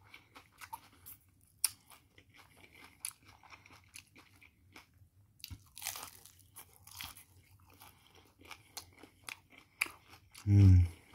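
Close-up crunching and chewing of crispy fried chicken taquitos, the fried tortilla shells crackling sharply with each bite and chew. Near the end, one short, loud, low vocal hum.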